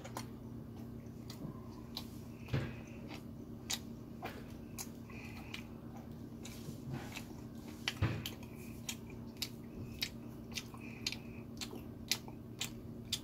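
Close-miked mouth sounds of a person chewing chapssaltteok, sticky glutinous rice cake with red bean filling: many short wet smacks and clicks at irregular intervals, the loudest about eight seconds in, over a faint steady hum.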